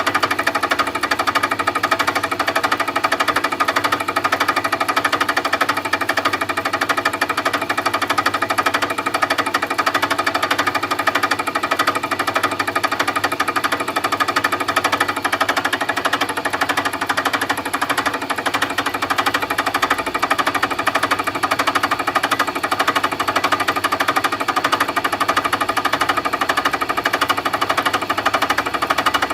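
Milling machine at work, a loud steady rapid chatter that goes on without a break.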